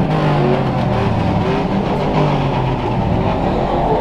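Loud car engines running and revving, their pitch rising and falling.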